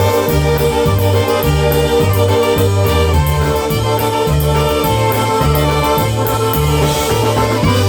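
A polka band playing live with no singing. A bass line bounces between two notes about twice a second under sustained melody notes, and cymbal ticks keep a steady beat.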